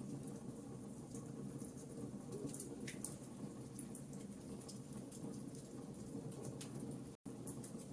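Wood fire crackling: scattered small sharp pops and ticks over a steady low rumble of burning. The sound cuts out completely for an instant near the end.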